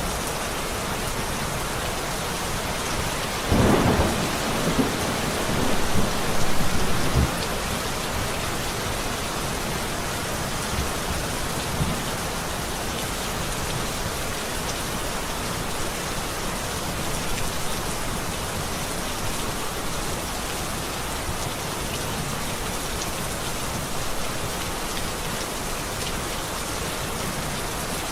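Steady rain falling, with a roll of thunder that swells about four seconds in and rumbles on for a few seconds before fading back under the rain.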